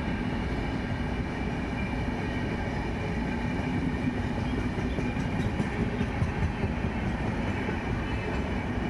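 A train rolling past on the rails: a steady rumble and rattle of wagons and wheels, with a faint steady squeal over it.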